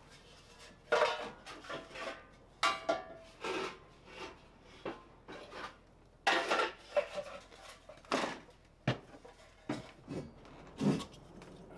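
Hard objects clinking and clattering as they are handled and set down: about a dozen sharp knocks with a short ring, in an irregular run.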